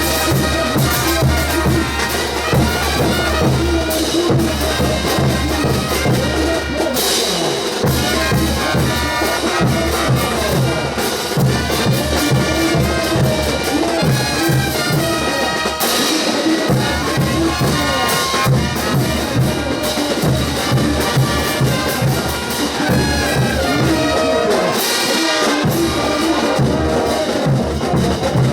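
Bolivian brass band playing a ch'uta dance tune: trumpets and trombones carrying the melody over steady drum beats.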